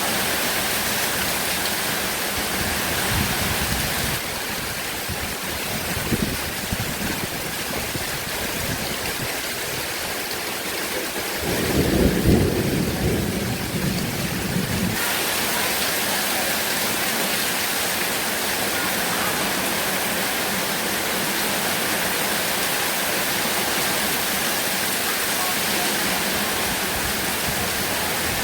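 Heavy rain pouring in a steady dense hiss, with a low rumble of thunder about twelve seconds in that lasts a few seconds.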